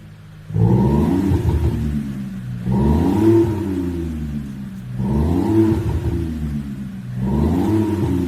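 SsangYong Korando Sports with an electronic active exhaust sound system playing a V8-style exhaust note, revved four times, each rev rising in pitch and falling back, roughly two seconds apart.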